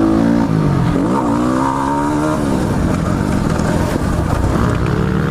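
Modified Yamaha WR250R dirt bike's single-cylinder four-stroke engine, big-bored to 310 cc and fitted with an FMF exhaust, revving under throttle on a motocross track. The pitch dips just before a second in, climbs steadily for over a second, then drops off.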